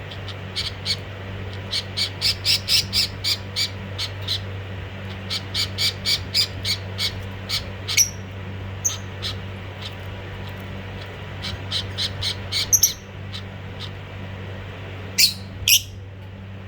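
Budgerigars giving runs of short, harsh squawking calls, about four a second, with a few louder, sharper calls in between and a final pair near the end. A steady low hum runs underneath.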